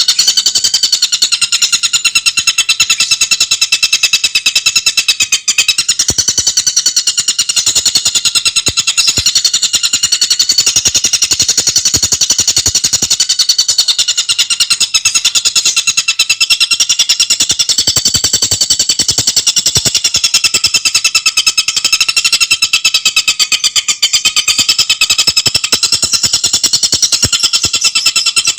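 Tengkek buto bird calling in a fast, unbroken rattling chatter of rapid high notes, kept up without a pause.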